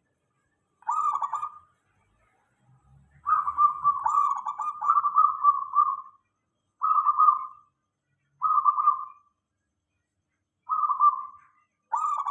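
Zebra dove (perkutut) cooing: six phrases of rapid rolling coos with short pauses between them. The second phrase is the longest, lasting about three seconds.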